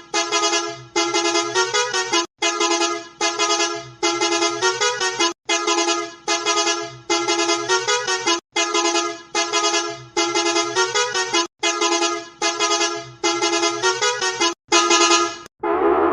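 A vehicle horn sounding a pitched multi-note honk, repeated in short edited clips split by abrupt cuts about every second and a half. Near the end it gives way to electronic music.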